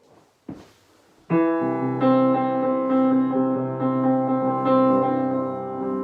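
A brief soft noise, then piano chords begin about a second in and are held, ringing on steadily.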